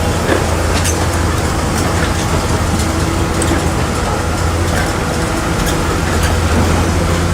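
Shantui crawler bulldozer's diesel engine running steadily, with a few faint clanks scattered through.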